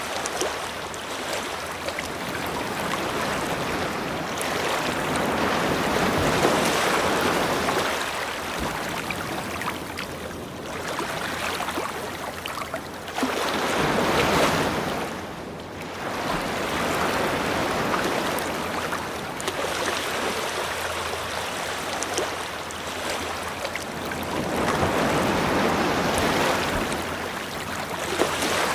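Ocean waves breaking and washing up a beach, swelling and easing every few seconds, with louder surges about six, fourteen and twenty-five seconds in.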